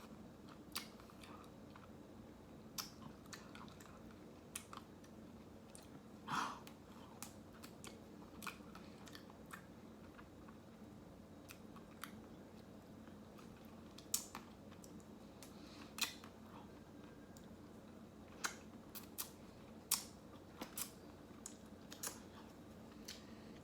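Faint eating sounds of ice cream taken close to the microphone: scattered short mouth clicks and smacks, one every second or two, over a low steady hum.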